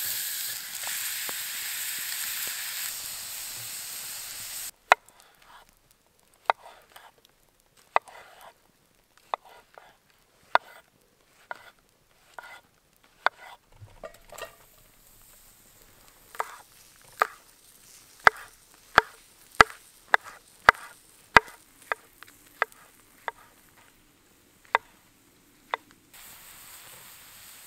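Steak searing in a hot cast iron skillet, a loud sizzle that cuts off suddenly about five seconds in. Then sharp single knocks of a knife chopping mushrooms on a wooden board, irregular and at times about two a second. Sizzling starts again near the end.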